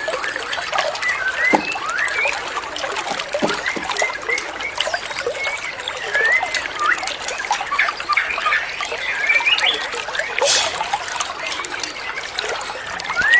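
Birdsong: many short whistled notes and chirps, rising and falling glides, over the steady trickle of running water.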